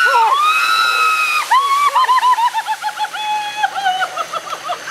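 A person screaming as a tractor bucket of ice water drenches them: first one long high scream over the splash of pouring water, then a rapid string of short shrieks, about four a second, slowly dropping in pitch. A tractor engine idles faintly underneath.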